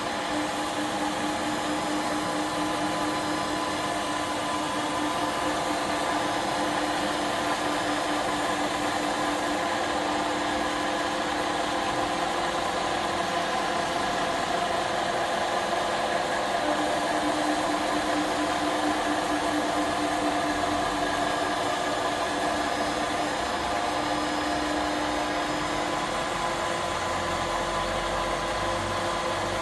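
CNC gantry router running: a steady motor whine carrying several steady tones, with a low rumble joining in the last few seconds.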